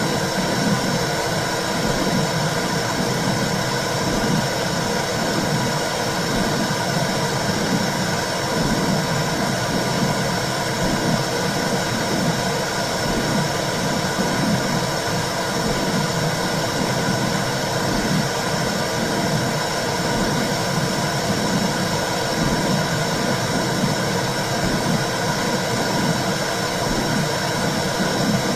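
Womb sound for soothing a baby: a steady low whooshing noise with a soft low pulse repeating evenly underneath.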